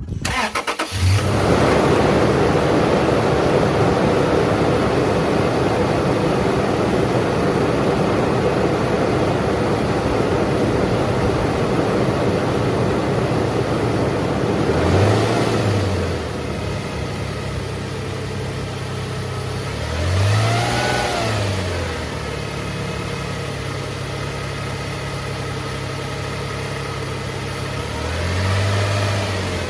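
Car engine idling, revved briefly three times, each rev rising and falling back to idle. The engine is running to show a noise that some people take for rod knock.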